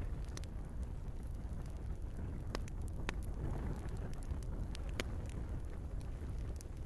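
Wood fire burning in a fireplace: a steady low rumble with scattered sharp crackles and pops, the loudest about three and five seconds in.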